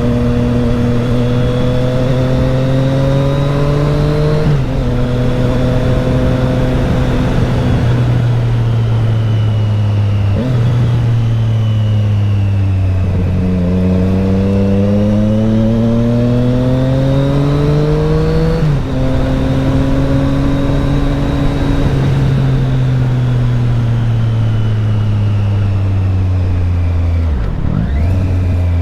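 2020 Triumph Street Triple RS's 765 cc three-cylinder engine and exhaust pulling through the gears: revs climb, then drop sharply at each upshift, about three times. A longer pull builds in the middle, and near the end the revs fall away steadily as the bike slows.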